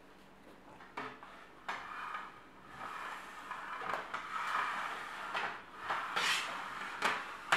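Burgers, plates and cardboard fast-food boxes being handled and slid about on a tabletop: a couple of knocks, then rustling and scraping, with two louder swishes near the end.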